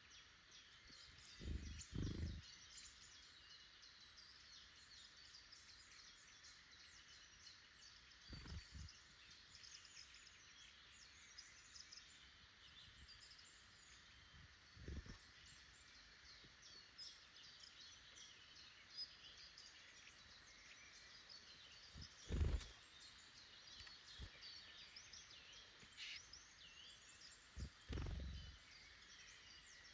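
Faint woodland birdsong: many small birds chirping and calling throughout. A few short low thumps come between them, the loudest about two-thirds of the way through.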